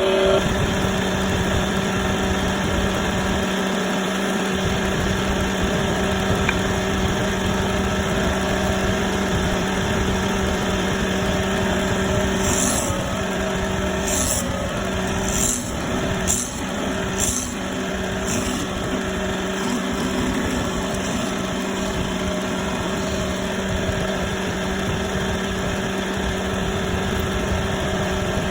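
Woodworking machine motor running steadily with an even hum. About halfway through come half a dozen short high hissing bursts.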